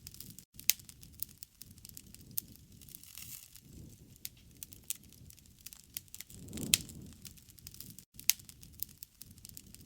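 Wood fire crackling, with irregular small pops and a few loud snaps over a low rushing hiss. The sound cuts out for an instant twice.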